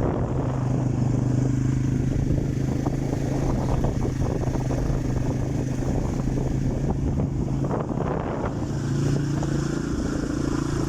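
Italika TC-250 motorcycle's single-cylinder engine running at a steady note, with a brief dip and recovery in pitch near the end.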